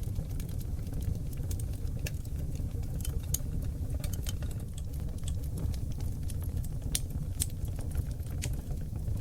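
Oak logs burning in a wood fireplace: a steady low rumble of flame with irregular crackles and sharp pops, a few standing out louder.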